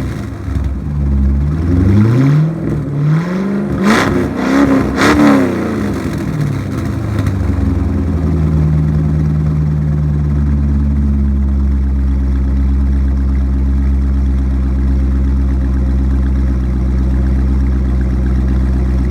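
1999 Corvette C5's LS1 V8 with a Borla axle-back exhaust, shortly after a cold start, given several light throttle blips in the first six seconds, the last two the sharpest. It then settles into a steady idle.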